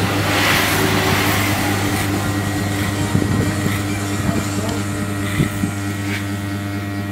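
Electric hair clipper running with a steady buzz, with a brief hiss in the first second or so and a few light clicks as it works.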